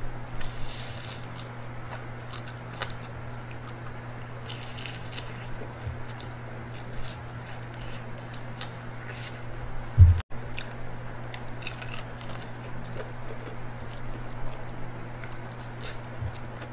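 Close-miked chewing and biting of fried chicken: scattered crisp crunches and wet mouth sounds over a steady low hum. A single heavy thump comes about ten seconds in, cut by a brief dropout.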